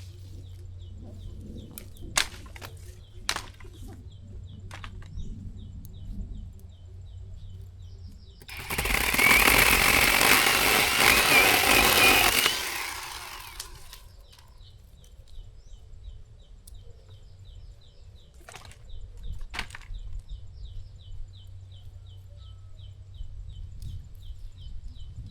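Zhipu 48V cordless chainsaw running in one burst of about four seconds, starting about eight seconds in. Before and after it, a fast, evenly repeating high chirping goes on, with a few sharp clicks near the start.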